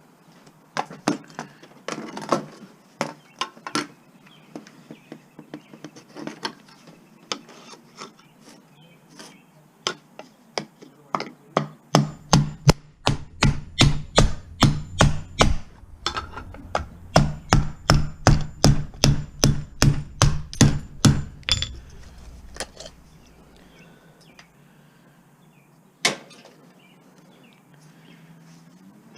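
Hammer blows while breaking apart scrap: scattered knocks and taps at first, then two runs of rapid, evenly spaced strikes about three a second, starting about twelve seconds in and again about seventeen seconds in. A single loud knock comes near the end.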